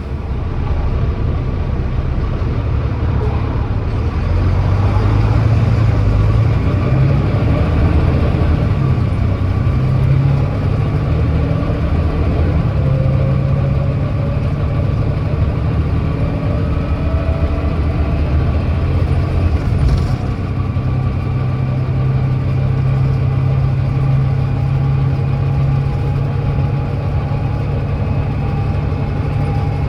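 Volvo B9TL bus's Volvo D9B 9.3-litre six-cylinder diesel under full throttle, pulling away and climbing a hill, the ZF Ecolife six-speed automatic shifting up from first through to fifth; the engine note rises and drops back at each change. The bus has an exhaust leak.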